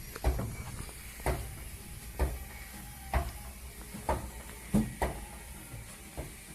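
Blocks of ice knocking down one after another, about once a second, as they are loaded aboard a boat. Eight sharp knocks, two of them close together near the five-second mark, over a steady low hum.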